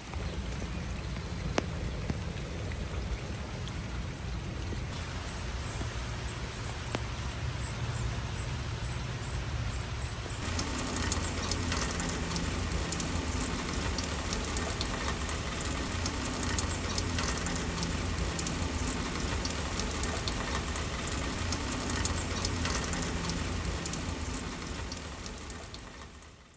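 Steady rain falling, with many individual drops splashing close to the phone's built-in microphone. The sound changes abruptly twice, about five and ten seconds in, and fades out at the very end.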